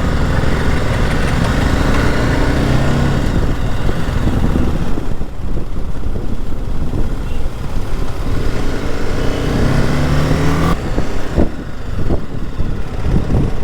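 Motorcycle on the move: the BMW G 310 GS's single-cylinder engine running under heavy wind rush, its engine note rising in pitch near the end.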